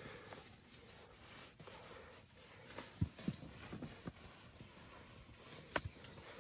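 A few faint knocks and clicks over a low steady hiss, with a small cluster about three seconds in and a sharper click near the end.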